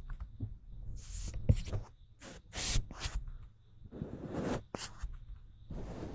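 A series of short, airy puffs of air blown at the microphone, each a brief whoosh, some coming in quick pairs, without the distorting crackle that blowing usually makes on the mic.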